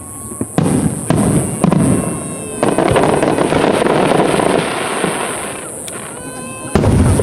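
Fireworks display: aerial shells bursting in a quick run of booms from about half a second in, then a dense barrage of bangs and crackle for about three seconds that tails off. Another heavy salvo goes up near the end.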